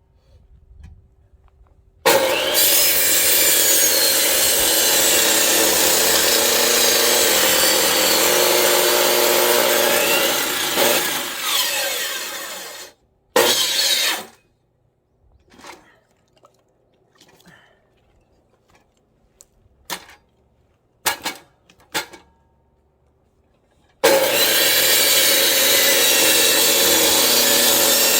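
Electric chainsaw cutting through firewood logs: one long cut of about ten seconds, a brief burst, then a pause with a few knocks of wood being handled, and a second cut starting near the end.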